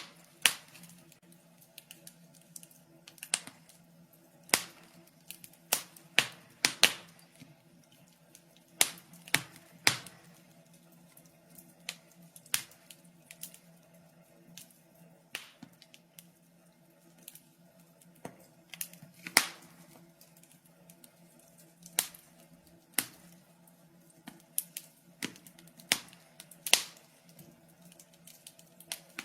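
Wood fire crackling: irregular sharp pops and snaps, a few to several seconds apart, over a faint steady hum.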